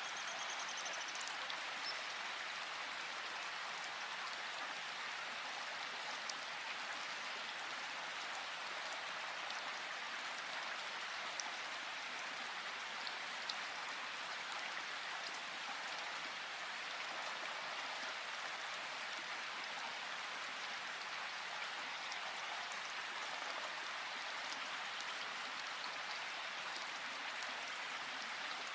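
Steady rushing water of a river or waterfall, with a few faint drip-like ticks. A bird gives a brief high call right at the start.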